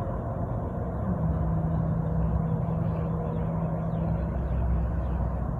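A motor vehicle's engine running, a steady low hum with a low tone that comes in about a second in and drops away after about four seconds.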